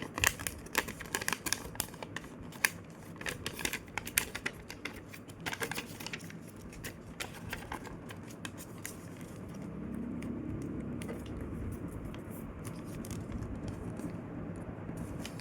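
A sheet of paper being handled and creased by hand during a reverse fold: short crisp crinkles and rustles, thick through the first half and fewer and softer toward the end.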